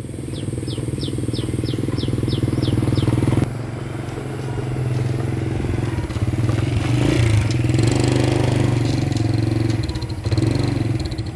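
Small four-stroke motorbike engine running, its note rising and falling with the throttle. A rapid series of about nine short, high, downward chirps sounds over it in the first three seconds.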